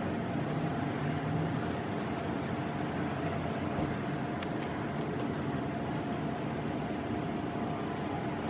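A motor-driven power tool running steadily with a constant whine, with a couple of brief high ticks about four and a half seconds in.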